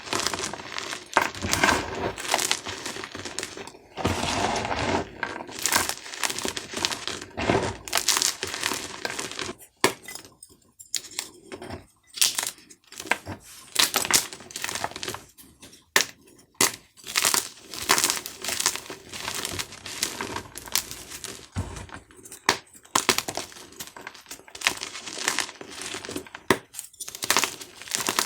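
Dyed gym chalk cubes crunching and crumbling as they are crushed: a dense run of crackling for about the first ten seconds, then sparser sharp crunches and clicks.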